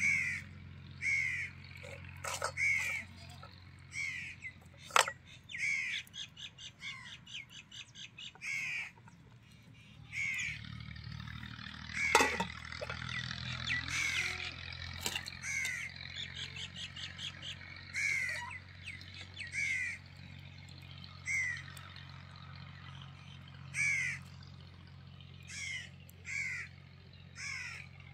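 Birds calling outdoors: short falling calls repeated every second or two, with a quick chattering run of notes about six to eight seconds in. A single sharp knock sounds about twelve seconds in, over a faint steady low hum.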